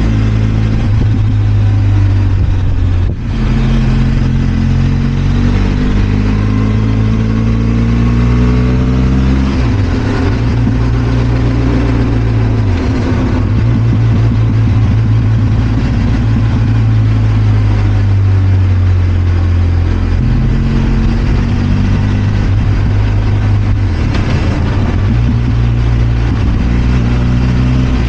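Benelli TRK 502 X's parallel-twin engine running while riding, the revs climbing under throttle and dropping sharply several times at gear changes or when the throttle is closed, with a brief dip in level about three seconds in.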